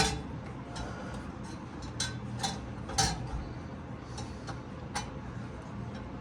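Irregular sharp metallic clicks and knocks of hand tools against the seized engine as it is worked on, about six in all, the loudest right at the start, over a low steady hum.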